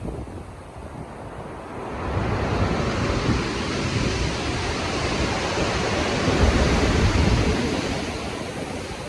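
Stormy sea waves rolling and breaking in strong wind. The surf swells about two seconds in, is loudest with a deep rumble around two-thirds of the way through, and then ebbs.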